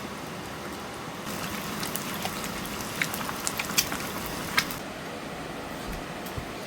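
Miyeokguk (Korean seaweed soup) cooking in a pot: liquid bubbling with small crackles and pops, louder for a few seconds in the middle.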